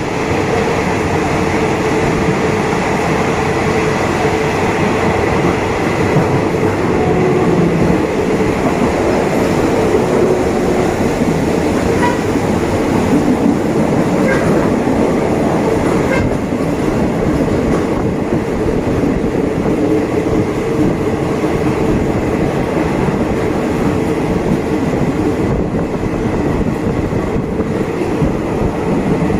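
Passenger train running along the track, heard from inside a wooden carriage with open windows: a loud, steady rumble of the wheels on the rails.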